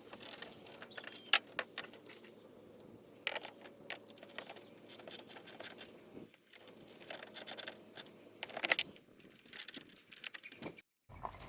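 Irregular light metallic clinking and jingling of small metal parts being handled, in scattered clusters, with the loudest clinks about a second in, around three seconds in and near the end.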